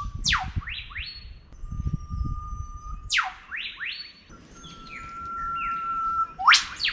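A bird singing the same phrase three times: a long steady whistle, then a sharp whip-like sweep falling from very high to low, followed by short rising notes. A low rumble runs underneath.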